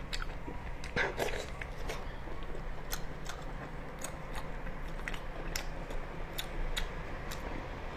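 Close-miked chewing of marinated octopus: irregular wet clicks and smacks from the mouth, with a louder one about a second in.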